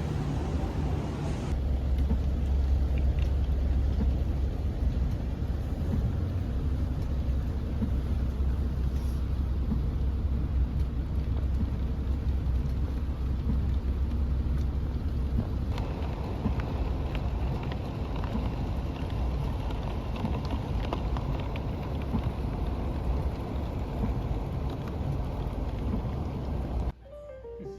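Steady low rumble with even noise over it, like a moving vehicle's road noise, cut off suddenly near the end.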